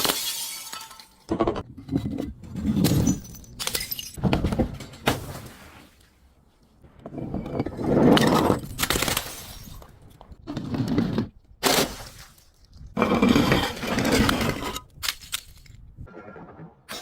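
Glass being crushed and breaking in a series of separate crunches, some short and some lasting a second or two, with brief pauses between them.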